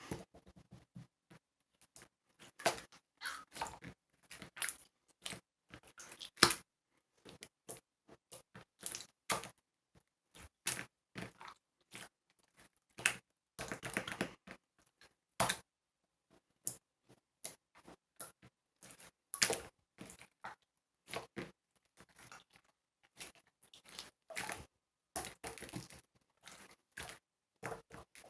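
Clear slime being squished and stretched by hand, making irregular wet clicks and pops, with a denser run of popping about halfway through.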